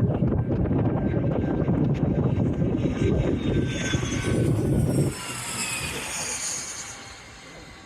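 A jet airplane passing, its engine whine falling in pitch as it goes by. Heavy wind rumble on the microphone drops away suddenly about five seconds in.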